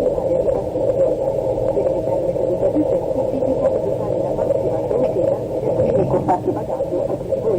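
Steady cabin noise inside an Airbus A330-200 airliner taxiing after landing, a dull, muffled rumble of engines and air conditioning.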